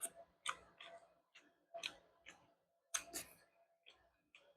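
Eating sounds at a breakfast plate: a string of short, irregular clicks and smacks, about ten in the space of a few seconds.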